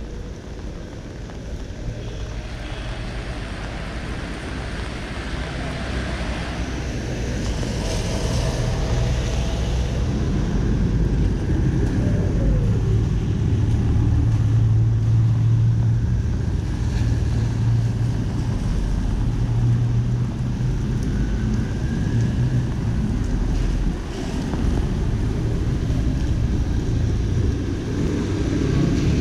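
City street traffic: vehicle engines running and passing close by, with a steady low engine hum under a wash of road and wind noise. It grows louder over the first ten seconds or so and stays loud, with a short falling tone about twelve seconds in.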